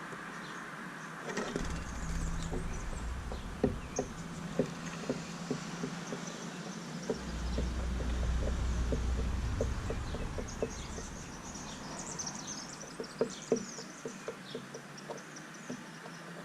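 Small birds feeding at a bird feeder: a run of quick, light taps from pecking at seed, with brief high chirps past the middle. A low rumble comes and goes underneath.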